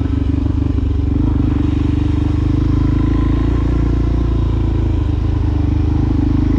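Exhaust note of a 2020 Suzuki DRZ400SM's single-cylinder four-stroke engine through a Yoshimura exhaust, running steadily while riding.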